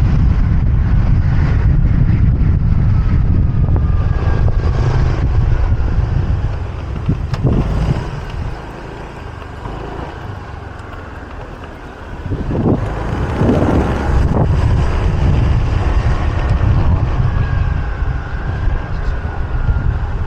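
Wind rushing over the microphone of a moving motorbike, with engine and street traffic noise underneath. The wind rumble drops for about four seconds in the middle, then picks up again.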